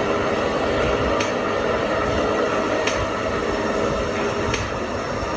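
A heavy vehicle's engine running steadily, with a light click about every second and a half.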